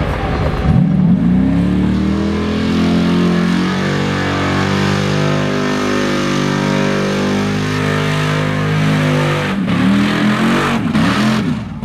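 Mud truck engine revving up about a second in and held at high revs for about nine seconds as it runs the bog, then several quick throttle blips near the end.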